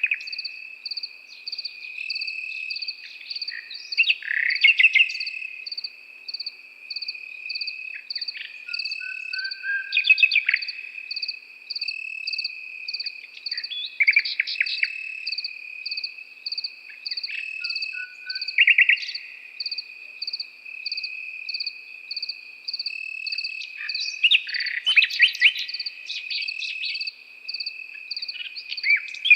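A nightingale singing in short phrases of rapid repeated notes every few seconds, over crickets: one steady high trill and a second insect chirping in a regular pulse above it.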